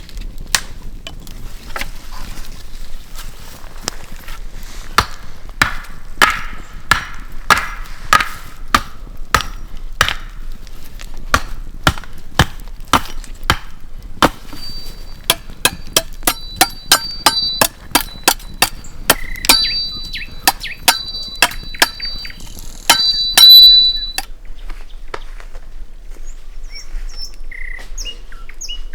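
Rhythmic chopping, a knife striking a board about one to two times a second while ingredients are cut for a marinade. In the second half many strikes ring with a thin, high tone, and a louder clatter comes just before the chopping stops, about four-fifths of the way in. Faint bird chirps follow.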